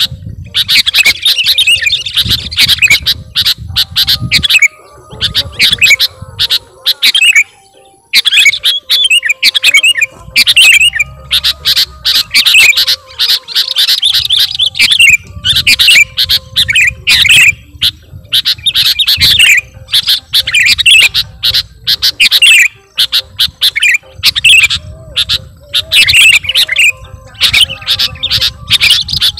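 Sooty-headed bulbul (kutilang) singing loudly in rapid, chattering bursts of notes, with a few short pauses between phrases.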